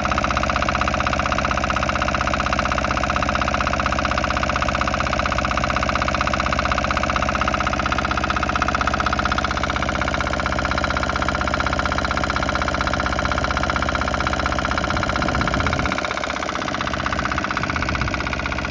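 Komatsu PC03 mini excavator's engine running steadily at idle, becoming a little quieter about sixteen seconds in.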